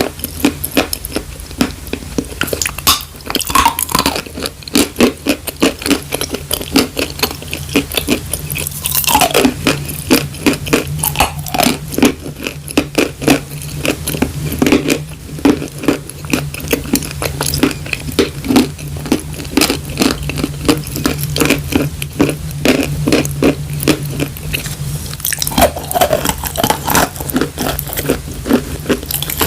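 Close-miked chewing of dry chalk: loud, dry crunches following one another in a quick, steady chewing rhythm.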